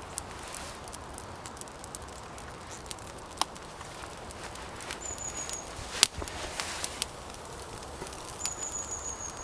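Newly lit campfire of wet wood crackling, with scattered sharp pops, the loudest about six seconds in. Two short, thin, high whistles come about five and eight and a half seconds in.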